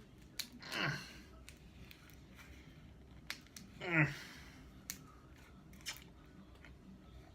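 A person chewing and crunching cereal with candy hearts stuck on, a few sharp crunches scattered through, and two long vocal groans that slide from high to low, about a second in and again about four seconds in.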